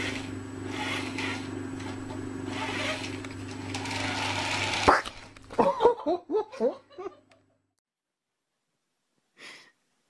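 Small electric motor of a toy car running with a steady hum and hiss for about five seconds, stopping with a sharp click. It is followed by about two seconds of short, rising and falling vocal sounds.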